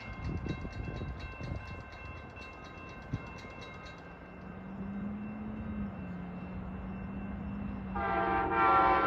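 Grade-crossing bell ringing rapidly, about five strokes a second, and stopping about four seconds in. A low hum follows, then the approaching Amtrak locomotive's horn blows a loud multi-note chord from about eight seconds in.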